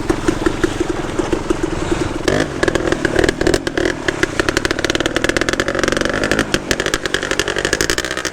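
Dirt bike engine running under way, firing in a rapid even beat, with the throttle opening and easing a couple of times.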